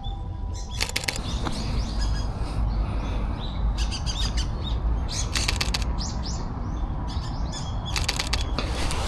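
Camera shutter firing in four rapid bursts of clicks, about a second in, near four seconds, around five and a half seconds and near eight seconds, from a Fujifilm X-H1 mirrorless camera shooting continuously. Small birds chirp now and then over a low rumble.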